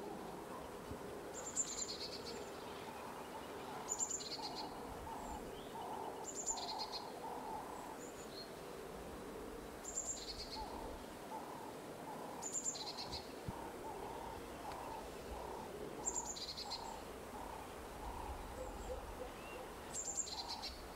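Birds calling: a high, sharp two-part call repeats about every two and a half seconds over a long run of soft, low hooting notes.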